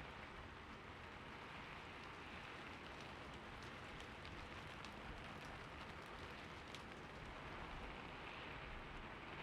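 Faint, steady rain-sound ambience: an even patter of rain with soft, scattered drop ticks.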